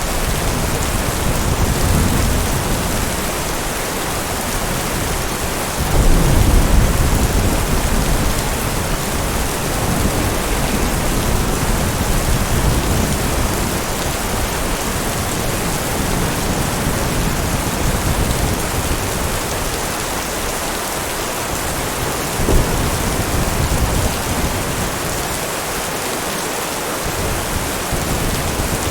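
Steady heavy rain with rolls of thunder. A loud thunderclap breaks in about six seconds in and rumbles on for a couple of seconds, and a short, sharp crack comes later.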